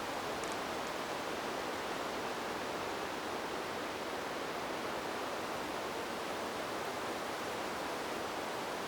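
Wind-in-the-trees white noise: a steady, even rushing hiss that holds its level, with no gusts or swells.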